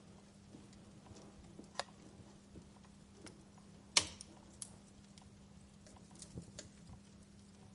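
Wood fire crackling: scattered small crackles and snaps, with one loud pop about four seconds in, over a faint steady low hum.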